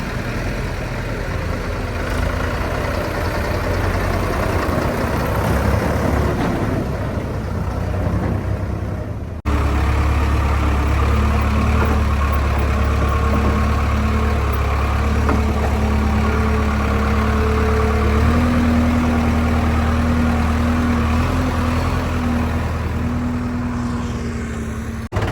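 Heavy diesel engine running at a steady speed. It changes abruptly about a third of the way in, then runs louder and steadier, its note stepping slightly higher later on.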